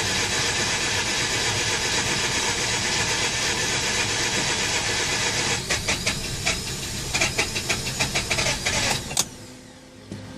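Mazda RX-8's twin-rotor rotary engine being cranked on the starter with the throttle held to the floor, the flood-clear procedure for an engine the owner takes to be flooded. About halfway through, the steady cranking breaks into irregular knocks as it tries to catch, then stops abruptly near the end without running.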